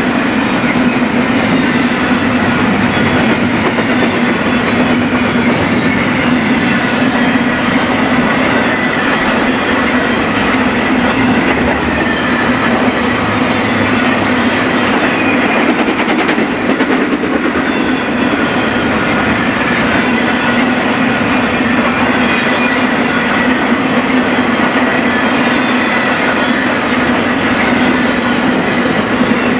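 BNSF freight train rolling past at steady speed: continuous wheel rumble and clickety-clack of the cars over the rails, with faint high ringing tones above it.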